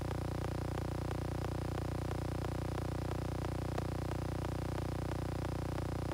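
A steady electrical-sounding hum with a rapid, even ticking of about five ticks a second.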